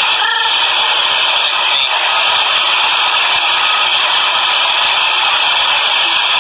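New York City subway train running along the platform at close range: a loud, steady rush and rattle of wheels on the rails.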